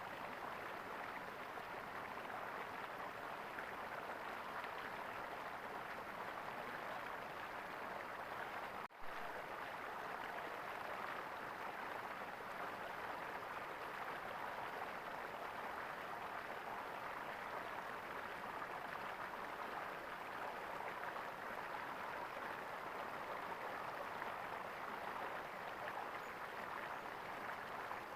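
Small stream of water gurgling steadily, with a split-second dropout about a third of the way through.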